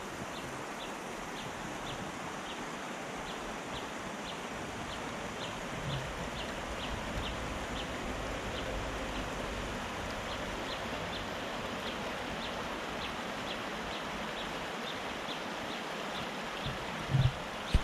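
Fast-flowing river rushing steadily, with a short high chirp repeating about twice a second above it. A few low thumps come near the end.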